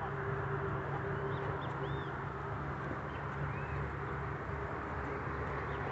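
Small birds chirping in short arched calls every second or so over a steady low hum and background noise.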